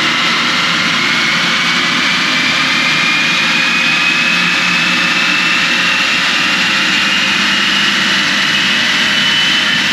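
2021 Audi Q3's 2.0-litre turbocharged EA888 four-cylinder engine making a dyno pull on a Mustang chassis dynamometer: a loud, steady rush of engine, exhaust and spinning rollers, with a high whine that climbs slowly and steadily in pitch as the revs build.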